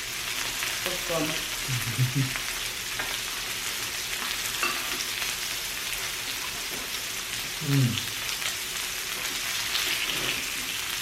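Pork belly sizzling steadily on a Korean barbecue grill, a continuous frying hiss.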